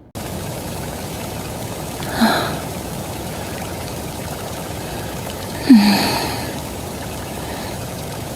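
Steady water ambience, an even hiss like rain or flowing water, with two short breathy sounds from a person, each with a brief falling pitch, about two and six seconds in.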